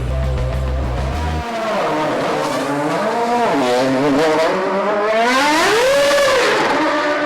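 Toro Rosso Formula One car's 2.4-litre V8 engine at high revs, its pitch rising and falling as it accelerates and lifts, with a big climb and drop near the end. Music with a heavy low beat plays underneath at first and stops about a second in.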